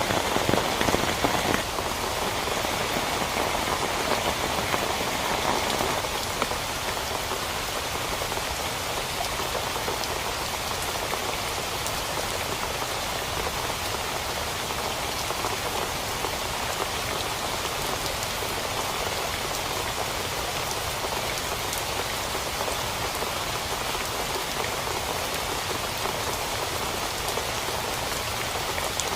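Heavy rain falling steadily with dense patter of drops, a little louder for the first several seconds before settling.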